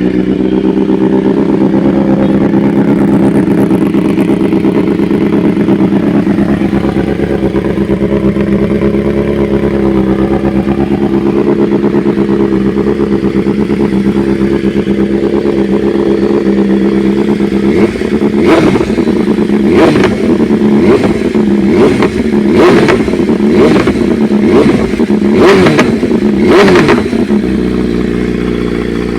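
Superbike engines running steadily at idle. About two-thirds of the way in, the throttle is blipped again and again, giving a string of quick revs and sharp exhaust cracks before the engines settle back to a steady idle.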